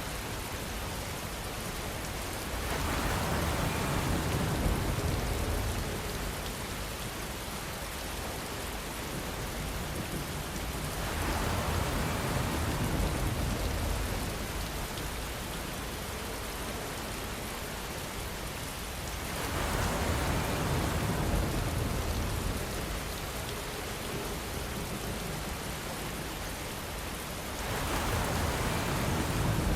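Steady rainfall, an even hiss of drops, that swells louder for a few seconds about every eight seconds, four times.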